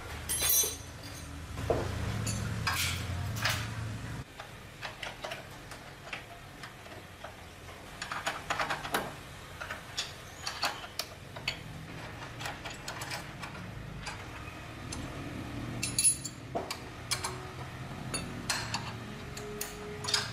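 Metal hand tools and engine parts clinking and tapping irregularly during hand work on a diesel engine, with a low hum at the start and again later on.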